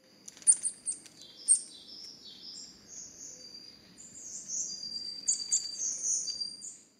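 Songbirds chirping: a run of short, high chirps and trills, with two sharper calls about half a second and a second and a half in, and busier, overlapping song near the end.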